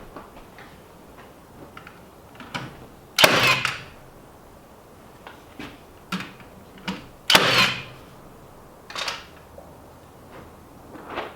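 Irregular knocks and clatters from hands-on building work, with two louder, longer clatters about 3 and 7 seconds in.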